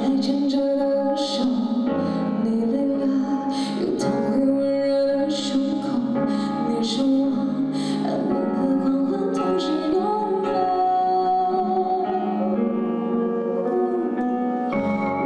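A woman singing a ballad with instrumental backing.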